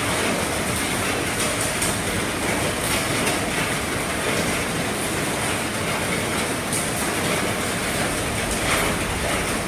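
Heavy rain falling steadily on an RV roof: a dense, even hiss with scattered sharper drop hits.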